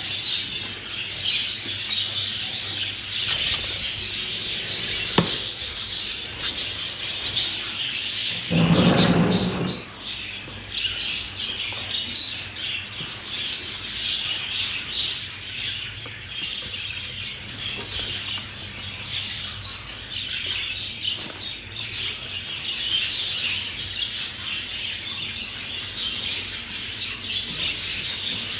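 Budgerigars chattering and chirping continuously, a dense high twittering of many birds with a few sharp clicks. A brief louder low sound about nine seconds in.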